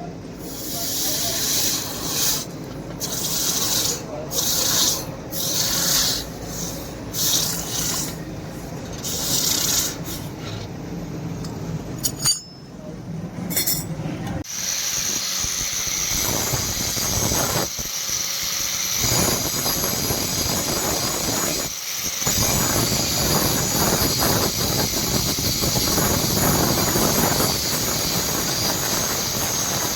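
Metalworking on a steel knife blank: rasping strokes about once a second, a sharp click, then from about halfway a steady hissing grind.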